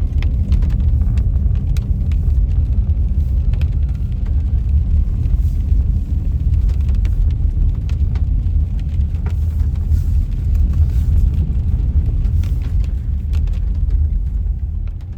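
Car driving, heard from inside the cabin: a steady, loud, low road rumble with scattered faint clicks.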